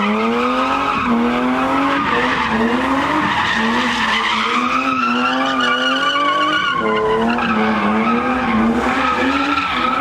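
A car's engine held at high revs, its pitch repeatedly rising and dipping, with tires squealing and skidding.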